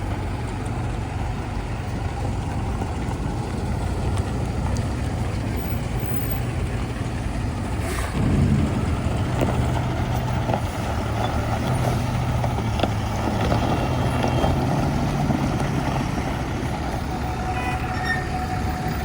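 Heavy diesel engine running steadily, with a sharp clank about eight seconds in, after which the engine runs louder for a while.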